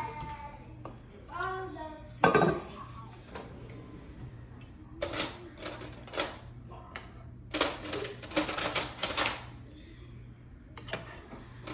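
Kitchen clatter: dishes and cutlery being handled, in several bursts of clinks and knocks, with a brief voice about a second in.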